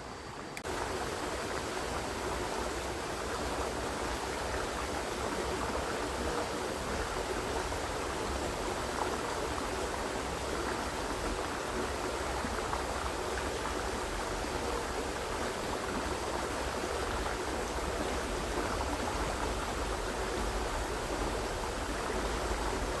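Small river running over its bed, a steady rush of water that steps up in level just under a second in.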